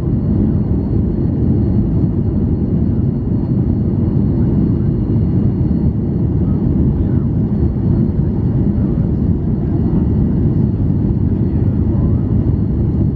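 Cabin noise of a Boeing 737-800 with its CFM56-7B turbofan engines: a steady deep rumble of engines and airflow with a faint high, even whine above it.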